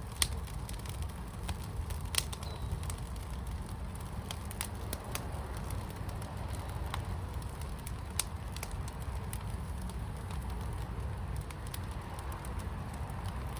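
Fire in a firepit crackling, with scattered small clicks and a few sharp pops: one just after the start, one about two seconds in and one about eight seconds in. Underneath is a steady low rumble.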